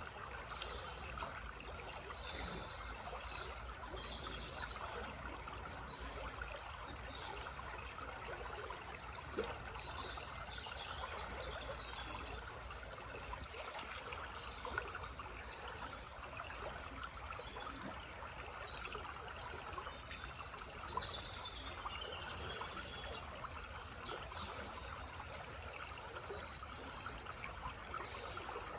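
A slow forest stream babbling steadily. Birds call and sing now and then above it, with a busier spell of chirps and trills about twenty seconds in.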